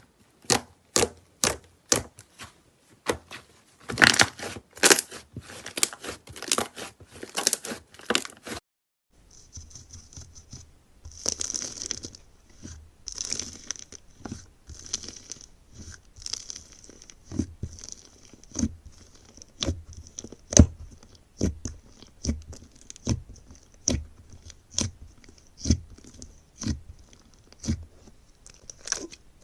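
Hands squeezing and pressing slime, a run of sharp crackling pops several times a second. After a brief cut about nine seconds in, slower, regular pops come about once a second over a faint high hiss.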